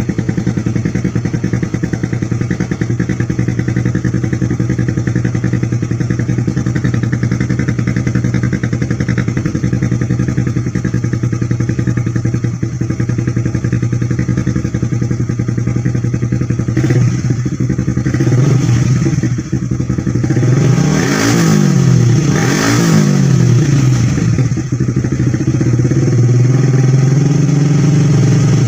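Honda CBR150R single-cylinder four-stroke engine, bored to 160cc, running through an aftermarket Thai-made exhaust. It idles steadily for over half the time, is then revved several times with two sharp blips about three-quarters through, and settles at a faster idle near the end.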